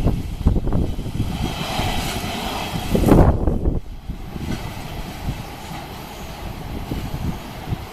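Freight train passing at speed, its wagons' wheels clattering over the rail joints, with a loud swell about three seconds in. After about four seconds the sound drops to a lower, steadier rumble.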